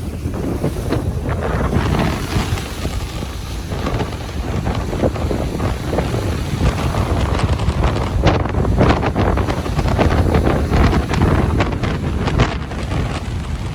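Ocean surf washing onto a beach, with wind buffeting the microphone: a steady noise heavy in the low end that swells and eases.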